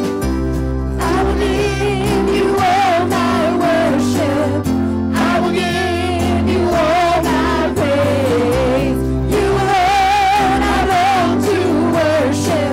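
Worship song played live: a singer with a wide vibrato over guitar and bass guitar chords. The voice comes in about a second in.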